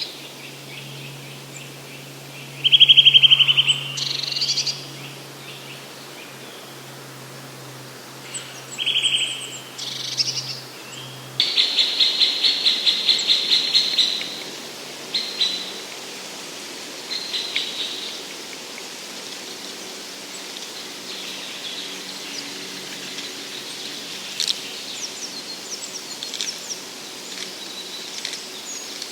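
Woodland songbirds singing: several loud trilled phrases in the first half, the loudest a fast, even run of repeated notes lasting about three seconds, then fainter scattered chirps.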